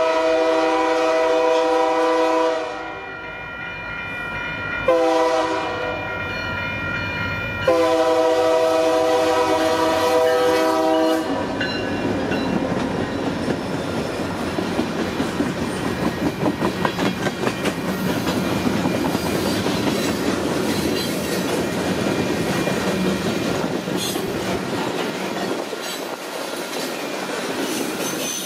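Union Pacific freight locomotive's air horn sounding long blasts for a grade crossing: one ends about three seconds in, then two more follow, the last stopping about eleven seconds in. Then the freight cars roll past close by with a steady rumble and rhythmic clickety-clack of wheels on the rails.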